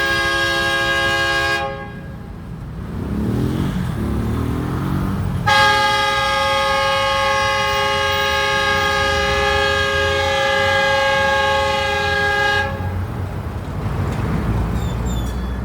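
Old locomotive's horn sounding a chord of several tones in two long blasts: the first cuts off about two seconds in, the second runs about seven seconds from about five seconds in. A low rumble fills the gaps.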